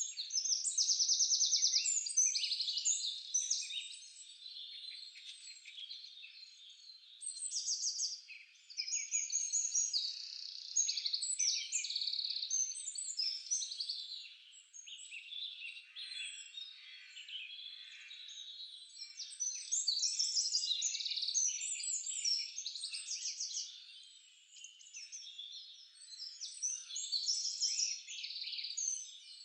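A chorus of several songbirds singing at once, with overlapping chirps and fast trills that swell and fade every few seconds.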